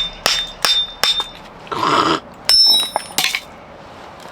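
Hammer blows on a steel wedge driven into a thick log to split it: about three strikes a second, each with a ringing metallic tone, for the first second or so. A longer rasping sound follows about two seconds in, then one more sharp metallic clang that rings on briefly.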